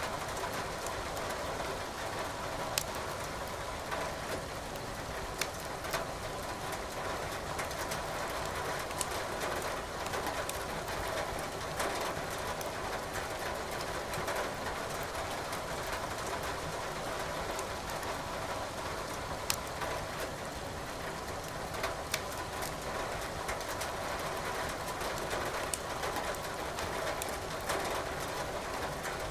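Steady hiss of rain together with a wood fire, its burning logs giving off an occasional sharp crackle or pop, a few times over the stretch.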